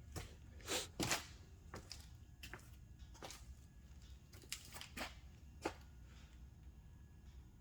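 Scattered light clicks and knocks, irregular and a second or so apart, the loudest about a second in, over a steady low hum.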